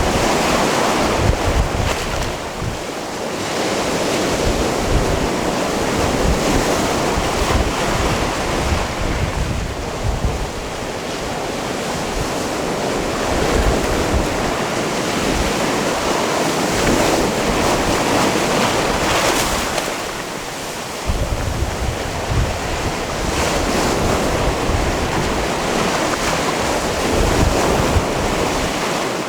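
Sea waves washing in over the rocks and stones of a small cove, swelling and easing every few seconds. Wind buffets the microphone with low rumbles, more strongly in the last third.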